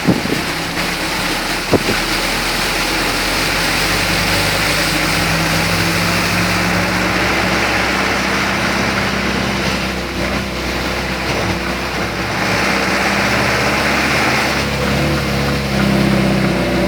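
Car driving on a wet road in rain: a steady hiss of rain and tyre spray over a low engine hum, with two short knocks in the first two seconds.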